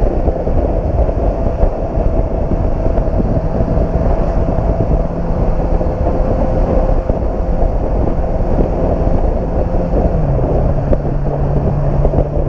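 Motorcycle engine running steadily while riding, with heavy wind noise on the microphone. The engine note drops a step about ten seconds in.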